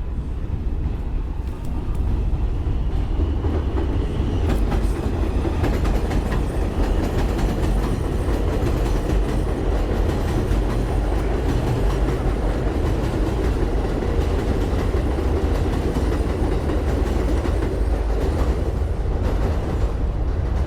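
Elevated subway train running on steel el tracks: a loud, steady rumble with rapid wheel clicks, growing louder about two seconds in.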